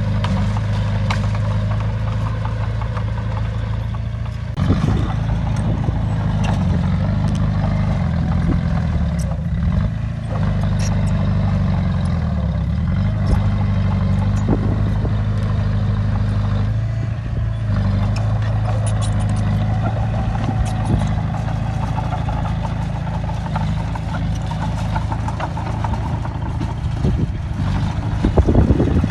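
Heavy diesel engine of earthmoving machinery working, its pitch and load shifting several times, with scattered metallic clatter.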